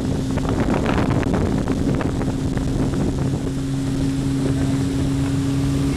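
Motor launch's engine running at a steady cruising hum, with water and wind rushing past and wind buffeting the microphone.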